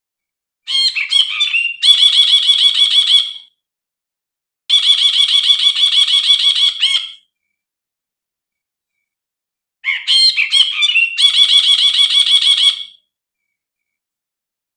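Brinji (bulbul) calling loudly in three bursts, each a couple of seconds long. Each burst is a fast chattering run of repeated high notes, about seven or eight a second; the first and last open with a few varied, sliding notes.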